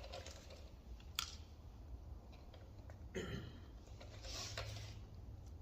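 Faint handling sounds of a motorcycle turn-signal lens and bulb being worked by hand: a sharp plastic click about a second in, then short scraping and rustling a little after three seconds and again near the end.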